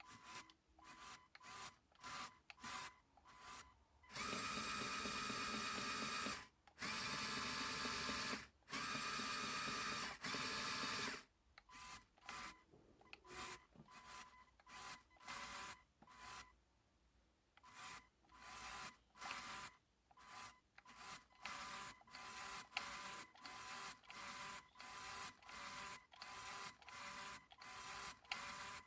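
Plastic Lego Technic gears and drive linkage of a model tractor whirring in short bursts, with three longer continuous runs a few seconds in, then quick stop-start bursts about twice a second.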